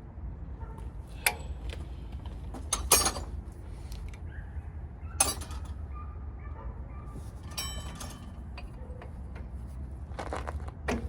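Metal tools and parts clinking and clanking a few times, one strike ringing briefly, over a low steady hum.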